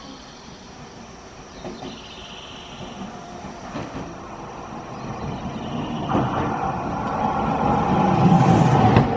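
Nankai 1000 series electric train approaching. Its running noise grows from faint to loud over the last few seconds as the train draws near, with a rising rumble and a steady hum.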